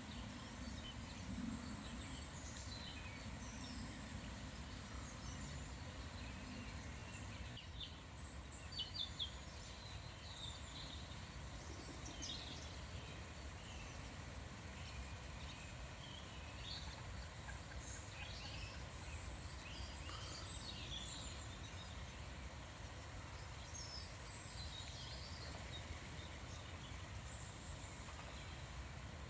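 Small birds chirping and singing in short scattered calls over a steady low background hiss, with a few sharper calls about eight to nine seconds in.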